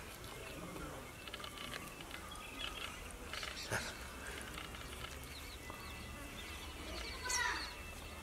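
Birds chirping now and then over a steady low hum, with the loudest run of chirps near the end and a single sharp click about halfway through.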